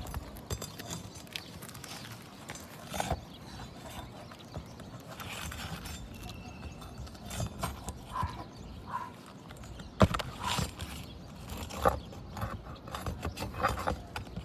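Scattered knocks, clicks and scrapes of a pry bar working under asphalt shingles to free staples that will not come up, with a sharp click about ten seconds in and another near twelve.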